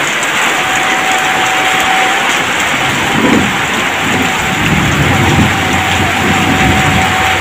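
Heavy rain pouring down steadily, with a low rumble joining in about halfway through.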